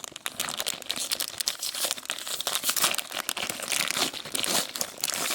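A toy blind-bag wrapper being crinkled and torn open by hand, with a dense run of irregular crackles and rustles.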